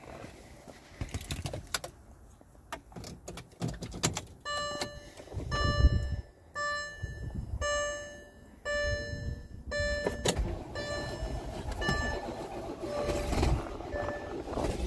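Clicks and knocks of the car door and key, then the dashboard warning chime ringing about once a second with the ignition on. About ten seconds in, the VW Touareg's 5.0-litre V10 TDI diesel starts and runs in a cold start in sub-freezing weather after sitting for two weeks, the chime continuing more faintly over it.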